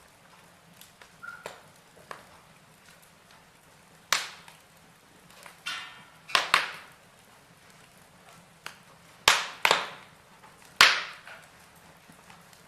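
Logs burning in a fireplace, crackling: a scatter of sharp pops and snaps, about six of them loud, over a faint steady hiss of the fire.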